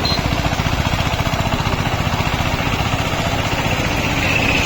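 Tractor diesel engine running steadily, with a fast, even firing pulse.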